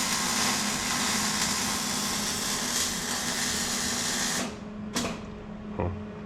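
A loud, steady hiss of pressurised air or spray, like a blow gun or aerosol cleaner, that cuts off suddenly about four seconds in and is followed by one short second blast and a small knock, over a steady low hum.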